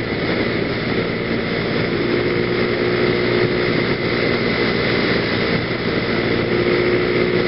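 PGO BuBu 125cc scooter engine running steadily at riding speed, with wind and road noise rushing over the helmet-mounted microphone.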